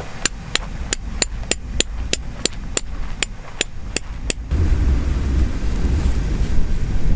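A hammer striking about a dozen steady blows, roughly three a second, stopping a little over four seconds in. Low wind rumble on the microphone follows.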